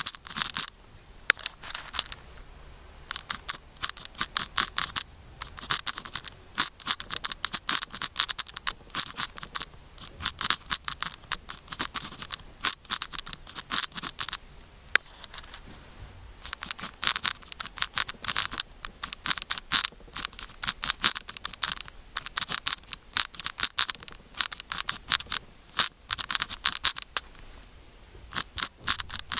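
KACO pen scratching across paper as characters are handwritten: quick runs of short strokes with brief pauses between them.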